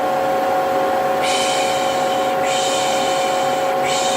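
Vacuum cleaner motor running steadily with a constant whine, overlaid by a person's 'pssh' shushing sounds, about a second each, three times from about a second in.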